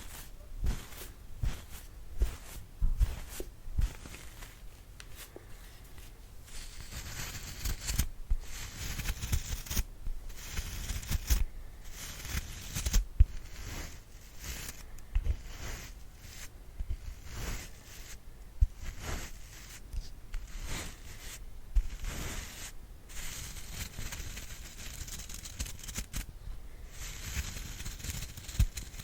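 ASMR brushing: brush bristles swept in many short, scratchy strokes, mixed with rustling from the hands and soft low thumps from handling.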